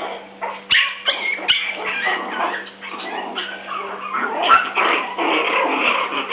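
Puppies whining and yipping, many short high calls overlapping with hardly a break.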